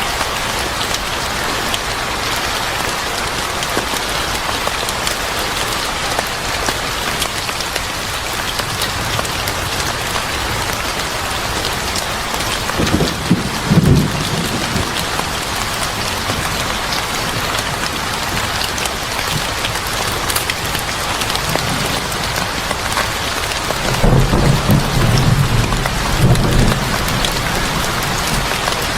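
Steady rain pattering, with two low rumbles of thunder: a short one about halfway through and a longer one a few seconds before the end.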